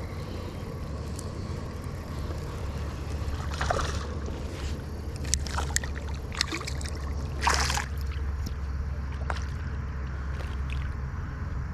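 River water sloshing and splashing several times in short bursts, the biggest about four and seven and a half seconds in, as a small hooked smallmouth bass is brought in. A steady low rumble runs underneath.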